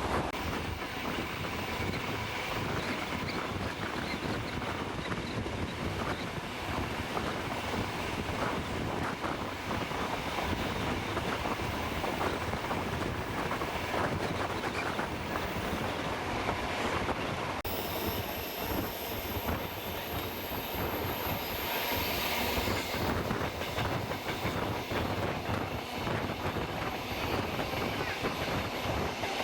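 Steam train running along the track: a steady rumble with the clickety-clack of wheels over the rails. A high hiss joins a little past halfway.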